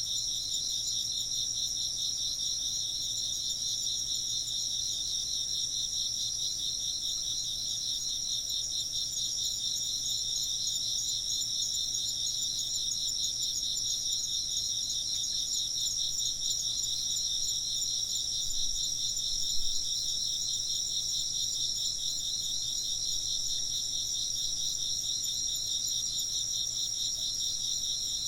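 A chorus of crickets and other insects chirping continuously: one rapid pulsing trill and a steady higher trill layered together. One brief, slightly louder sound stands out about two-thirds of the way in.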